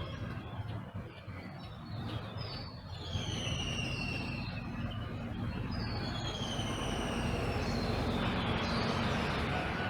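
Songbirds in a dawn chorus, one singing clear whistled notes that slide downward in pitch and repeat every second or two, over a steady low rumble.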